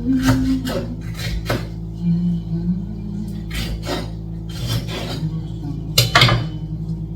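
Cooking utensils clinking, knocking and scraping against cookware, in a series of separate strikes with the loudest about six seconds in.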